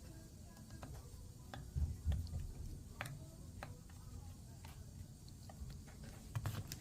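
Scattered light clicks and taps, with a couple of soft thumps, from small metal parts and hand tools being handled during carburetor work, over faint background voices.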